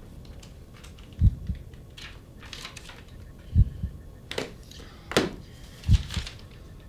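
Heartbeat sound effect: slow lub-dub double thumps, one pair about every two and a half seconds, with a few sharp clicks and rustles between them.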